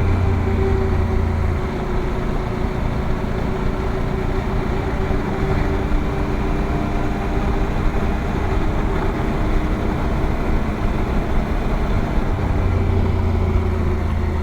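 Motorcycle engine running at a steady pace while riding, with a constant rush of road noise.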